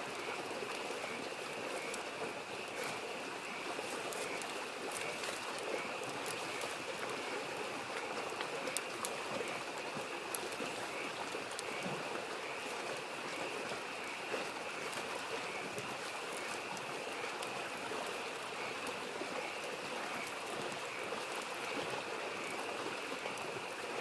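A stream flows steadily over a continuous chorus of frogs, with a few sharp pops and crackles from a wood campfire.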